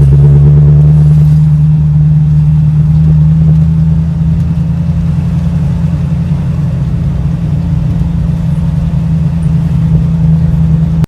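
1965 Ford Mustang driving: engine running with a steady low drone and road noise, its pitch rising slightly as it picks up speed near the start and then holding steady.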